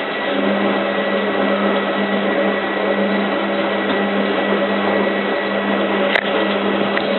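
Hotpoint 9534A washing machine's drum motor running steadily with a hum as the drum tumbles the wash load, stopping near the end. A sharp click about six seconds in.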